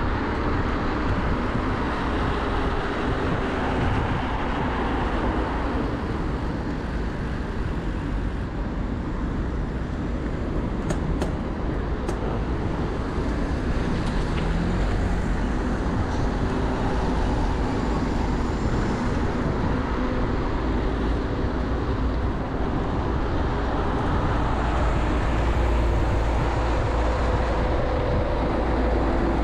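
Steady rush of wind over a bike-mounted microphone on a moving bicycle, with road traffic passing alongside on a busy main road.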